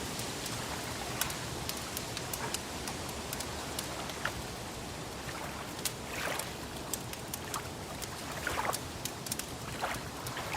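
Wood fire crackling, with frequent sharp irregular pops, over a steady wash of water lapping.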